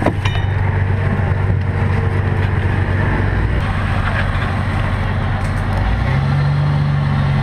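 Engine of an off-road 4x4 running steadily during a tow recovery through mud. Its note steps up about six seconds in. A sharp knock comes right at the start.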